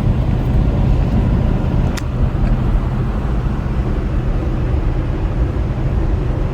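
Inside a semi-truck cab at highway speed: the engine's steady low drone and road rumble, with a single sharp click about two seconds in.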